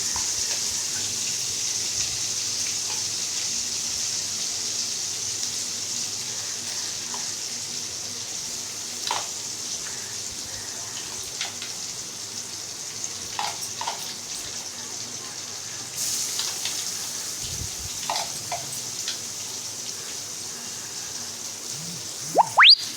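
Chopped onions sizzling in hot oil in a pan, the steady hiss slowly dying down as they fry, with a few light knocks now and then. Near the end comes a short, loud rising whistle-like sweep.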